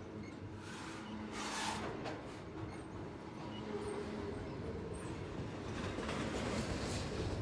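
Freight train running past with a steady rumble of wheels on rails, with a brief hiss about a second and a half in.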